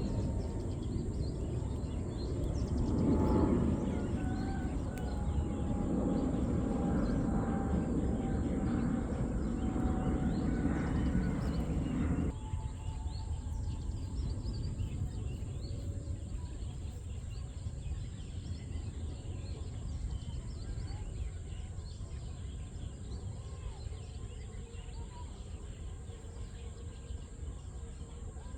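Outdoor field ambience: a steady rushing noise with faint bird calls. The noise drops suddenly to a quieter hiss about twelve seconds in.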